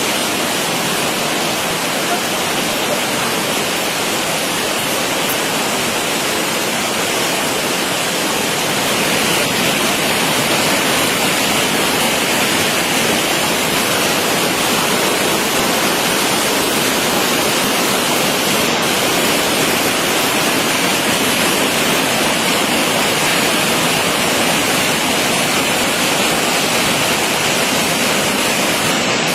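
Steady, loud rushing of storm water, a little louder from about nine seconds in.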